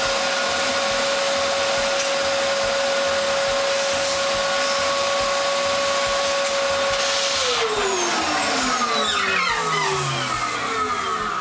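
Electric balloon inflator (air blower) motor running with a steady whine, switched off about seven seconds in and winding down, its pitch falling away.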